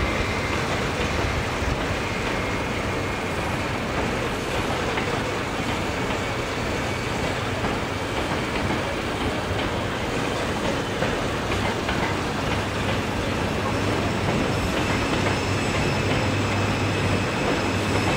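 Train of passenger coaches rolling past on the rails, a steady rumble of wheel and rail noise with a low hum underneath.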